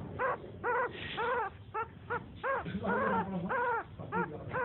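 A newborn puppy whining in a quick run of short, high squeaks, each rising and falling in pitch, about two or three a second.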